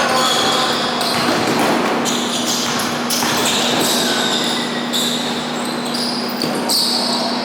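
Basketball game sounds in a gym hall: a ball bouncing on the court amid scattered short knocks and squeaks, over a steady low hum.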